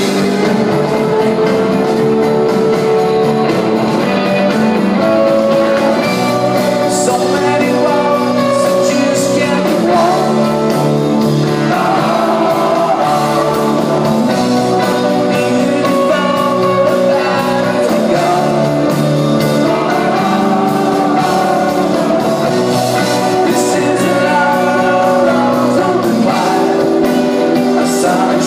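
Live rock band playing a song with a sung lead vocal and guitars, as heard in a large venue.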